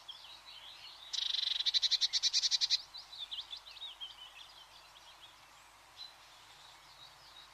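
Small birds chirping and twittering in a continuous chorus. About a second in, a louder, rapid pulsed trill of about nine pulses a second breaks in and stops abruptly under two seconds later.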